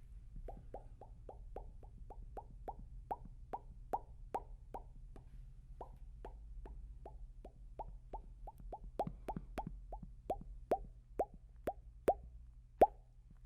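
Close-up ASMR mouth pops: a steady run of short wet pops, about two or three a second, several of them louder in the second half.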